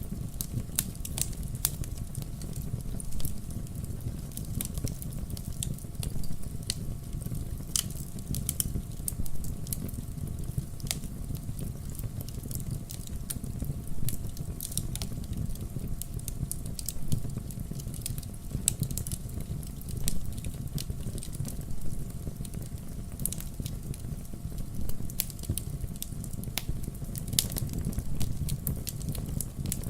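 Campfire burning, with a steady low rumble of the flames and frequent irregular sharp crackles and pops from the burning wood.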